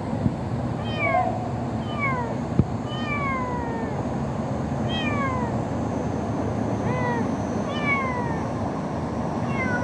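Kitten meowing over and over, short high calls that fall in pitch, about one a second. Two light knocks come in the first few seconds.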